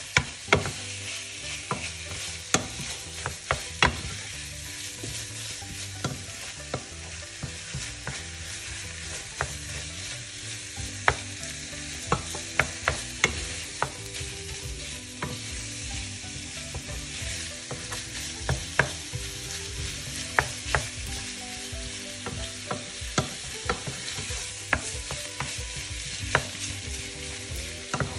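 Freshly added minced pork with onion and garlic sizzling in a non-stick frying pan while a wooden spatula stirs it. Irregular knocks and scrapes of the spatula on the pan sound over a steady frying hiss.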